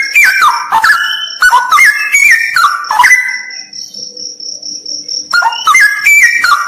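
Straw-headed bulbul singing loud, rich warbling phrases of stepped, gliding notes. It falls silent for about two seconds in the middle, leaving a steady high-pitched insect trill, then resumes.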